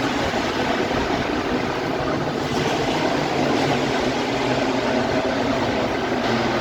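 Racing motorcycle engines on the circuit, heard as a steady, blended engine noise without a single bike sweeping close past.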